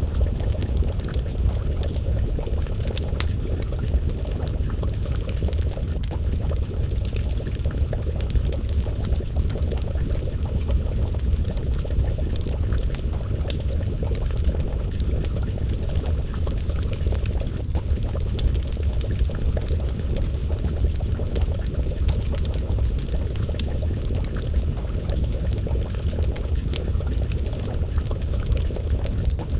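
A pot of stew bubbling at a simmer over a wood fire, a steady low bubbling rumble, with frequent small crackles and pops from the burning wood.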